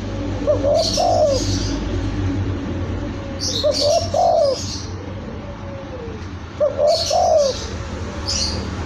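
Spotted dove (tekukur) cooing: a short phrase of coos repeated three times, about three seconds apart, with brief high chirps of small birds alongside each phrase.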